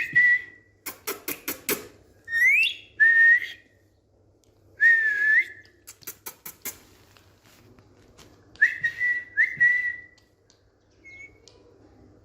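Indian ringneck parakeet whistling: short clear notes around one pitch, one of them sliding upward, in a few separate phrases. Two quick runs of sharp clicks come between the whistles, at about one and six seconds in.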